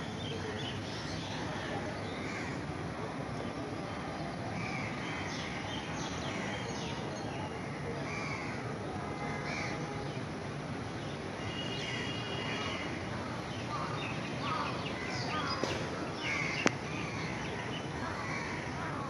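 Outdoor ambience: a steady background hiss with birds calling again and again, the calls coming more often in the second half, and a single sharp click near the end.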